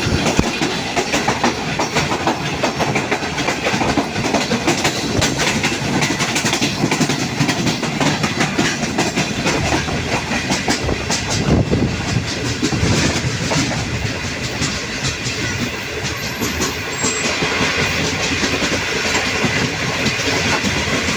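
Passenger train running through a station at speed: a steady loud rumble of coach wheels on the rails with continuous clickety-clack over rail joints.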